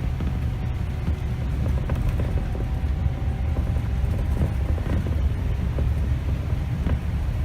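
Steady low rumble of a Scania K270 city bus on the move: diesel engine and road noise.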